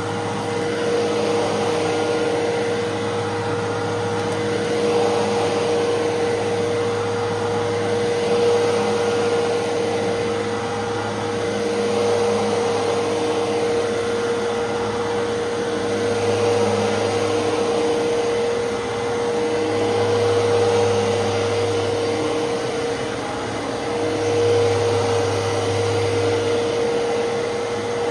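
Fantom Fury 10-amp upright vacuum cleaner running steadily while vacuuming, a constant motor whine over a low hum that swells and eases every few seconds. It runs smoothly.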